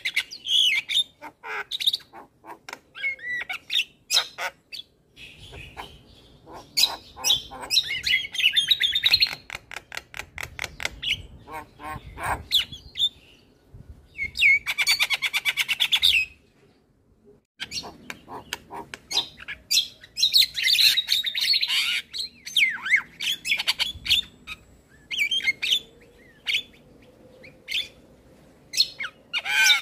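Male Javan myna singing a long, varied song of harsh squawks, whistled notes and fast clicking rattles, with a short pause about two-thirds of the way through.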